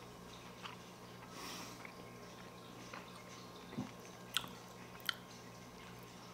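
Faint chewing of a mouthful of soft cooked fish, with a few small mouth clicks and smacks, over a low steady hum.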